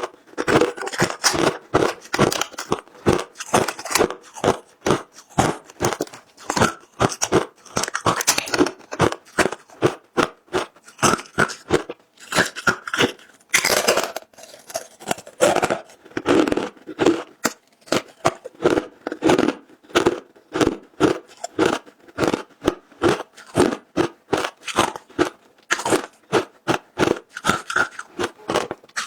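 Close-miked biting and chewing of frozen matcha ice: a rapid, steady run of sharp crunches as the ice is bitten and ground between the teeth.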